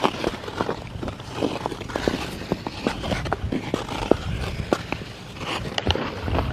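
Ice skate blades on outdoor rink ice, an uneven run of scrapes and sharp clicks over a low rumble.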